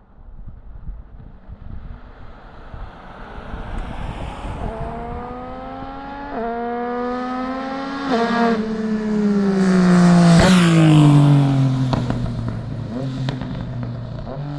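Yamaha Tracer 900 GT's three-cylinder engine through a LexTek full aftermarket exhaust, accelerating hard with two short breaks in the note at gear changes. It gets loudest as it passes about ten seconds in, then drops in pitch and fades as it goes away.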